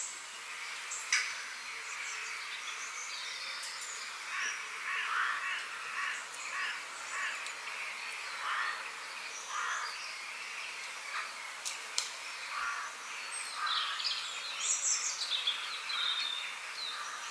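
Several wild birds calling and chirping over a steady background hiss, with short repeated calls throughout and higher chirps overhead. Two sharp clicks sound, about a second in and again near 12 seconds.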